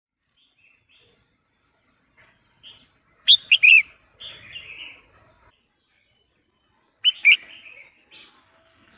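Female red-whiskered bulbul calling, the kind of call used to rouse male bulbuls to sing. About three seconds in there is a quick burst of three loud notes, then a softer, rougher chatter; about seven seconds in come two more loud notes.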